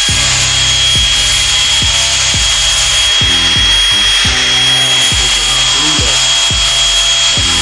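Electric drill with a mixing paddle running steadily in a bucket of dip paint, a continuous high whine over hiss, stirring in the pigment so it doesn't settle to the bottom. Background music with a steady beat plays underneath.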